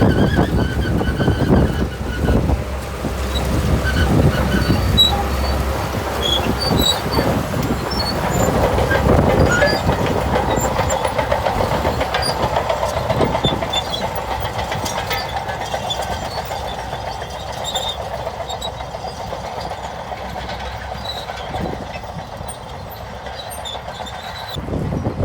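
Shantui crawler bulldozer working: its diesel engine runs under load while the steel tracks clank and clatter. The sound grows gradually quieter over the second half.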